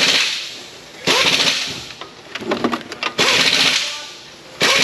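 Aerosol can of PB Blaster penetrating oil sprayed in several short hissing bursts, each under a second, with brief pauses between.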